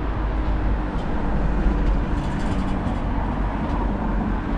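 Street traffic: a steady rumble and hiss of a motor vehicle running past on the road, swelling slightly in the middle.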